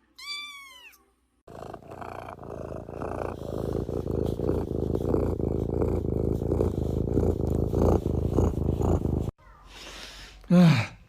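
A cat gives a short meow, then purrs loudly close to the microphone for about eight seconds, a steady pulsing rumble that cuts off suddenly. A short loud call follows near the end.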